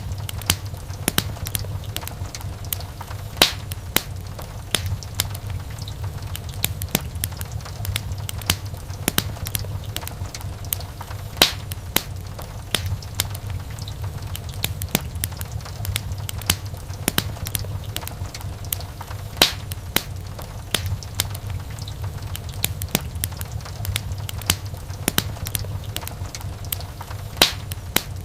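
Wood fire crackling in a fireplace: a dense, irregular run of small sharp pops and snaps, with a few louder pops, over a steady low rumble of the flames.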